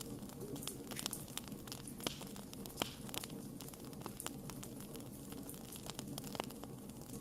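Wood fire crackling: burning logs snapping and popping irregularly over a low steady hiss of flames.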